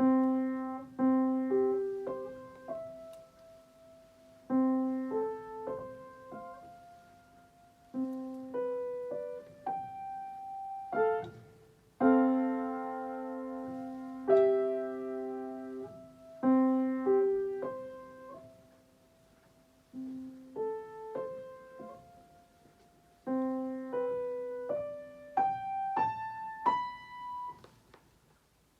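Solo piano playing a slow, gentle piece: short phrases of single struck notes over a repeated low note, each note ringing and fading, with brief pauses between phrases. Late on, the notes climb higher step by step, then fade away.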